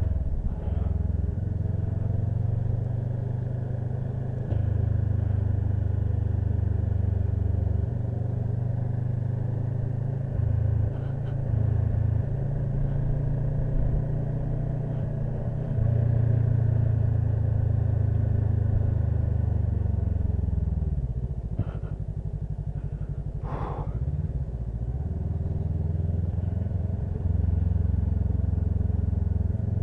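Motorcycle engine running on the move, a low steady engine note that rises and falls slightly with the throttle. It eases off about twenty seconds in, with a couple of short clicks, then picks up again.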